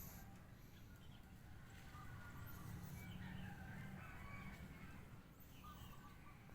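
A rooster crowing faintly, with a steady low hum underneath.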